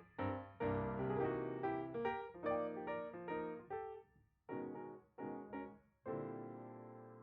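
Piano music: a series of struck chords, ending on a final chord about six seconds in that rings out and fades.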